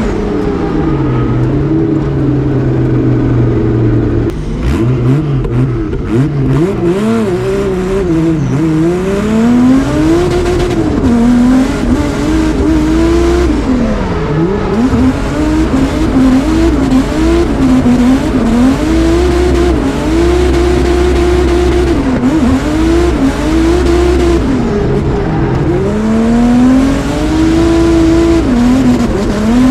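Turbocharged Nissan drift car's engine heard from inside the cabin during a drift run: low and steady for the first few seconds, then revving up and dropping back over and over.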